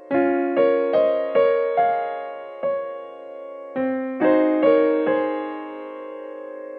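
Background piano music: a gentle melody of struck notes and chords, about two or three a second, that stops striking about five seconds in and lets the last chord ring.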